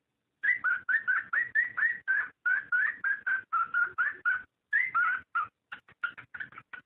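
Cockatiel mating calls: a fast run of short chirps, about five a second, many dropping slightly in pitch. They start about half a second in, come in runs with brief pauses, and become shorter and choppier near the end.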